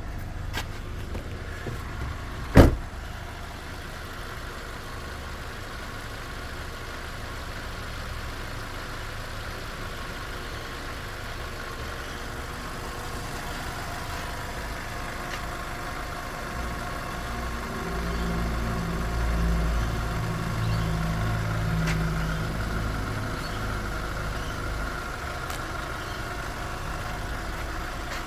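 Vehicle engine idling steadily during an engine test, with one sharp bang about two and a half seconds in. The engine gets louder and uneven for about five seconds past the middle, then settles back.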